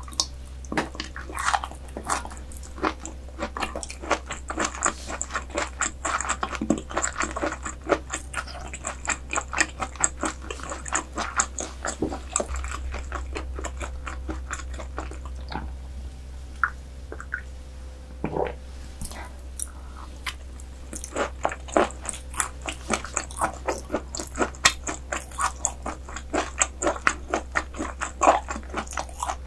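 Close-miked ASMR chewing of raw croaker dishes: a quick run of small wet clicks and mouth smacks that eases off for a few seconds in the middle and then picks up again.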